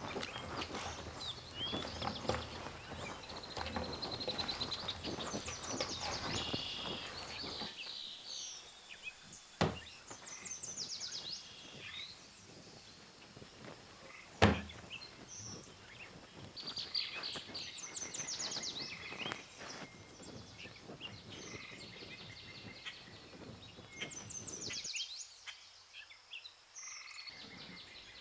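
Hands kneading soft dough in a metal bowl, with dense squelches and knocks for the first several seconds, then two sharp thuds, about ten and fifteen seconds in, as the dough is slapped onto a wooden table. Birds chirp and trill throughout.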